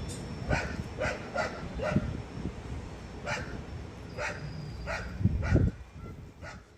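A dog barking, about nine short barks spaced irregularly, over a low rumble; the sound fades out near the end.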